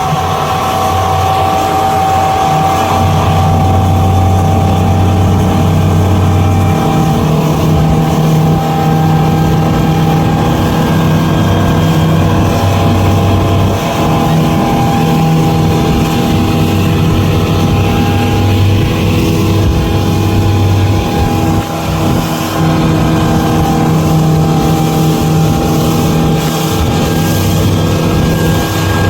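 Speedboat engine running hard and steady while towing an inflatable ride; its note shifts now and then.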